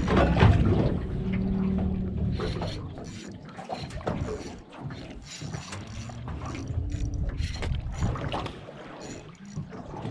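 Sounds aboard a small fishing boat at sea: a low steady hum with faint tones, and scattered knocks and clatter from gear on the deck.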